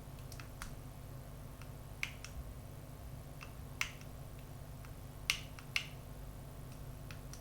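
Scattered light clicks and taps from hands handling a smartphone gimbal, about a dozen, the sharpest pair a little past five seconds in, over a steady low hum.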